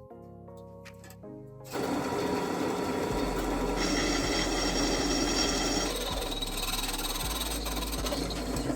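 Background music, joined about two seconds in by a loud, steady mechanical noise from a power tool at work, which eases off near the end.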